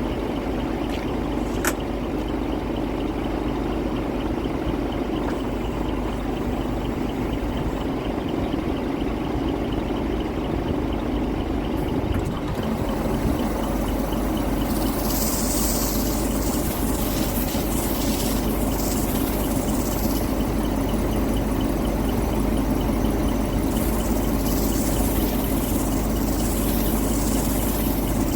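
A motor running steadily with a low, even drone. From about halfway through, a rushing hiss joins it, rising and falling.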